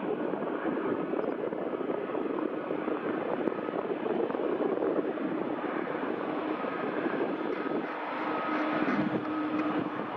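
Jet engine noise from a Boeing 737-8 MAX's CFM LEAP-1B turbofans: a steady, dense rush with a faint whine running through it.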